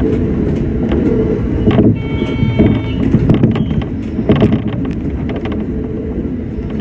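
Shinano Railway SR1 series electric train running, heard from inside at the front: a steady low rumble with irregular sharp clicks from the wheels on the track. About two seconds in, a brief high ringing tone sounds for roughly a second.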